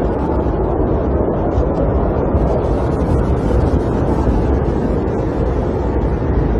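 Snowstorm wind blowing against a camper, a steady low rushing noise with faint light ticks on top.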